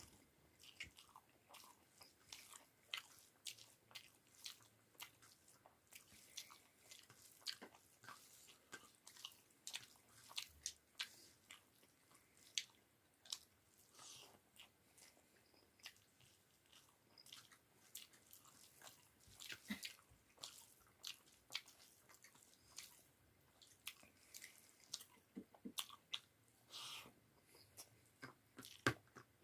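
Close-miked chewing of a meal of rice with chickpea dal and potato pakoras: quiet, irregular mouth clicks and smacks, a few a second, with no break.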